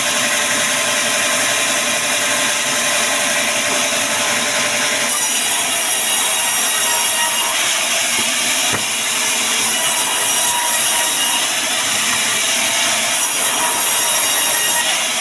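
Band sawmill cutting through wood, a steady sawing hiss over the running machine. The high hiss grows louder about five seconds in.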